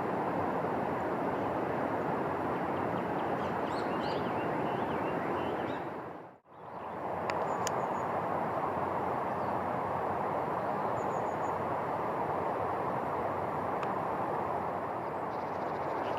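Steady outdoor rushing noise with a few faint, high bird chirps over it; it drops out briefly about six seconds in and resumes.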